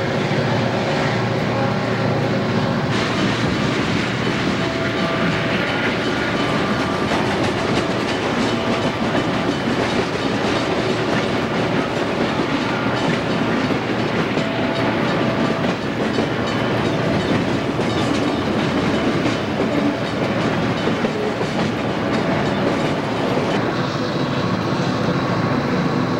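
Southern Pacific freight train of loaded open hopper cars rolling past close by, with a steady clatter of wheels on the rails.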